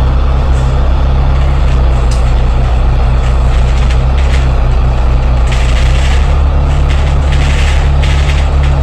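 Franchised bus diesel engine running steadily under way, heard from inside the cabin: a loud low drone with road noise. Bursts of hiss come in past the middle and near the end.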